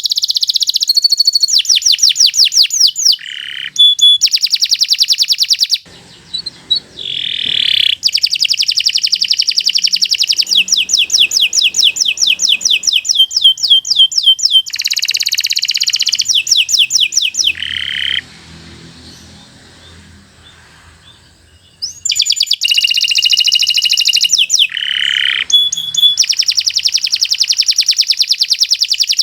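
Domestic canary singing long, fast rolling trills of rapidly repeated high notes, with a brief pause and a longer pause part-way through.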